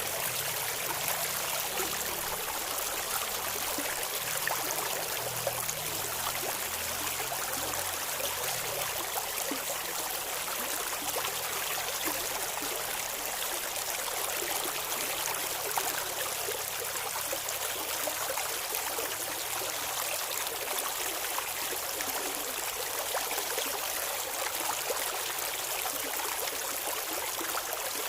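Clear river water babbling steadily over rocks, a continuous hiss dotted with small splashes and trickles.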